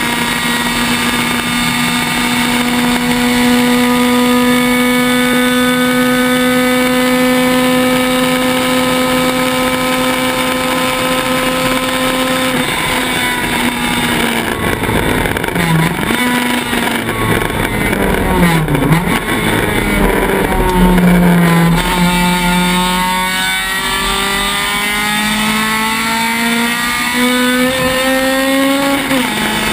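Honda Civic race car engine heard from inside the car, held at high revs with the pitch slowly climbing for about twelve seconds. The revs then drop and waver, dipping low at one point. From about two-thirds of the way in they climb again in rising sweeps, with a sudden drop just before the end.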